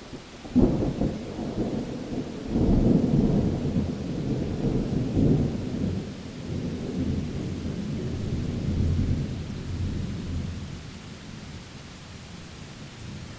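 A thunderclap with a sharp crack about half a second in, then a long low rumble that swells again after a couple of seconds and dies away over about ten seconds, over steady rain.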